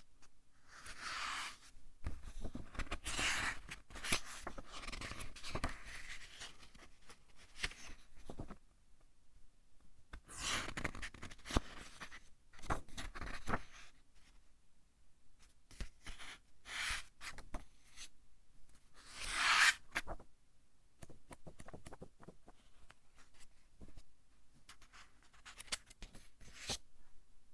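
Pages of a thick-paper book being turned one after another, each turn a short rustling swish of paper with small clicks, separated by brief quiet gaps.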